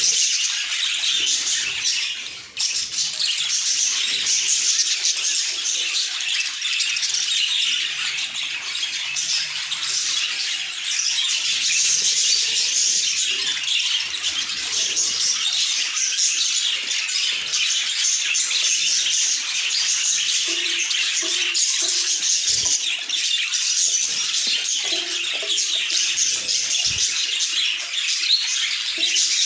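Budgerigars chattering and chirping, a dense, continuous high twittering with a brief drop about two and a half seconds in.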